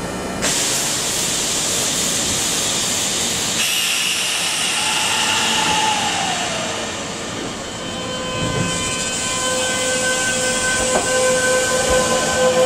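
Kintetsu limited express electric train at the platform: a loud burst of compressed-air hiss starts suddenly and cuts off after about three seconds, followed by fainter hissing. From about nine seconds in, a steady whine in several tones comes in.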